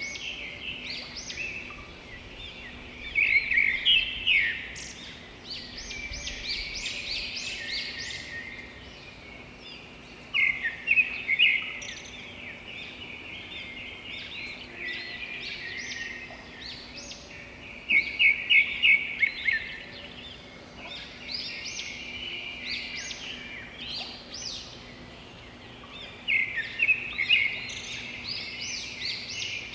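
Songbirds singing: a loud phrase of rapid, high notes repeats about every seven to eight seconds, with quieter chirping between the phrases.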